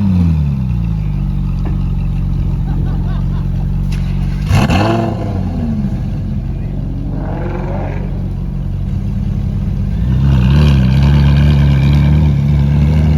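Car engine idling with a low, steady note, revved sharply once about four and a half seconds in and lightly again near eight seconds, then running louder from about ten seconds.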